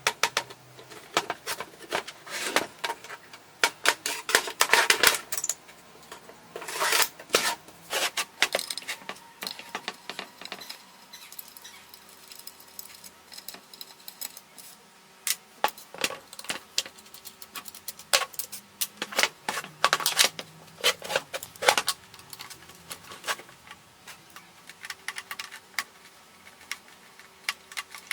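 Metal parts and hand tools clinking and rattling as an old circular saw is worked on by hand, with irregular sharp clicks and a few longer stretches of rattling and scraping.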